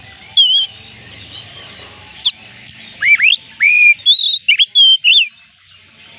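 Oriental magpie robin singing: a quick run of varied, clear whistled notes, many sweeping up or down, which stops about a second before the end.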